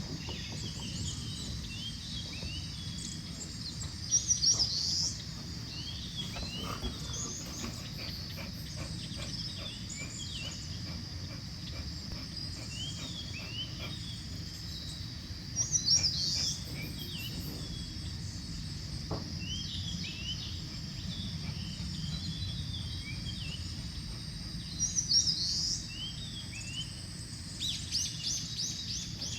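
Wild birds singing in a summer forest: many short chirps, with one louder song phrase coming three times about ten seconds apart. Under them runs a steady high insect buzz.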